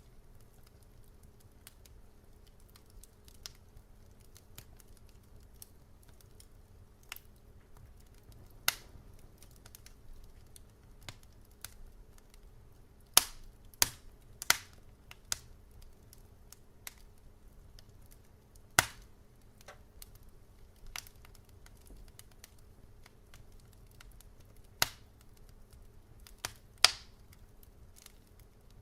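Wood fire crackling in a fireplace: sharp pops and snaps at irregular intervals, with a cluster of louder pops about halfway through and more near the end, over a low steady hum.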